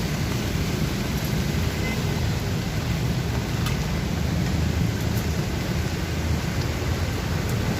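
Steady rain falling, with a continuous low rumble underneath and a few faint ticks of drops.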